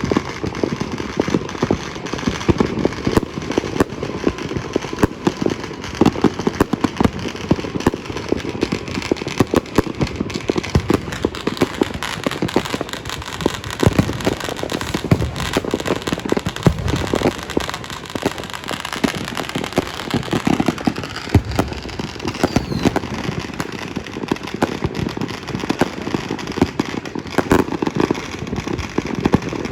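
Fireworks and firecrackers going off everywhere at once: a dense, unbroken crackle of pops and bangs with no pause.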